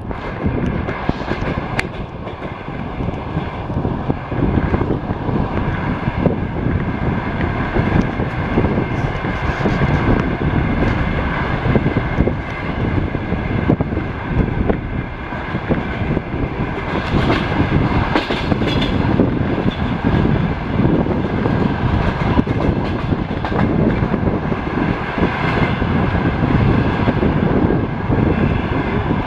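A passenger train coach running along the track, with the wheels clattering over the rail joints above a continuous rumble.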